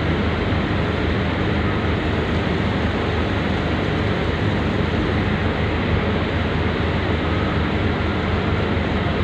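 Steady drone of a ferry's engines heard from inside the ship: a constant low hum under an even rushing noise.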